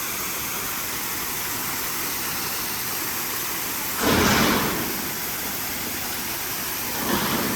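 Steady rushing roar of a waterfall, with a louder burst of rushing noise about four seconds in and a smaller one near the end.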